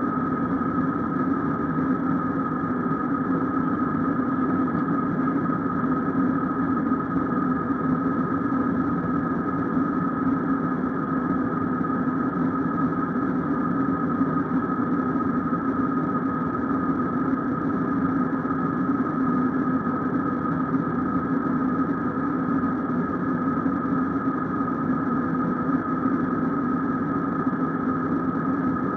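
Airliner cabin noise inside an Airbus A321 with IAE engines: a steady engine drone and air rush with a constant hum and a steady whine, unchanging throughout.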